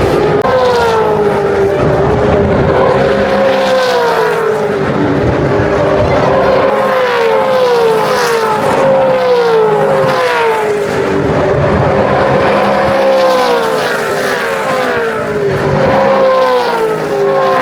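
V8 Supercars racing past at full speed, their loud engine notes falling in pitch one after another, roughly once a second, as a stream of cars goes by.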